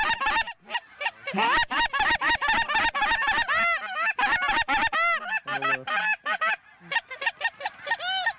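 Lesser Canada geese calling: rapid, overlapping honks and clucks, many per second, each note rising and falling in pitch.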